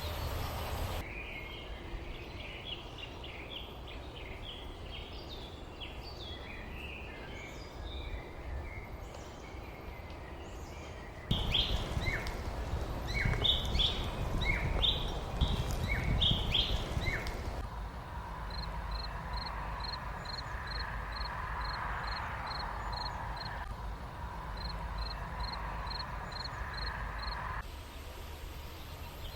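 Songbirds chirping and twittering in the countryside, in several short takes joined one after another. In the middle take the chirps are louder over a low wind rumble. In the last take a single high note repeats about twice a second.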